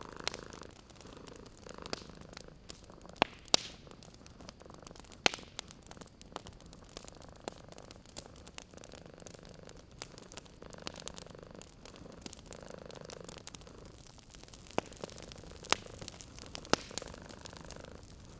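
A cat purring steadily, swelling and fading with each breath every two seconds or so. Sharp pops and crackles of a wood fire in a fireplace are scattered throughout, a few of them standing out louder.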